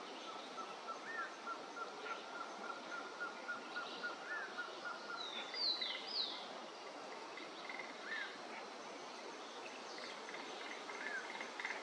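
Birds calling: short rising-and-falling notes every few seconds, with two sharp high downslurred notes near the middle as the loudest sounds. A thin steady tone runs under the first few seconds, and a pulsing buzz comes in near the end.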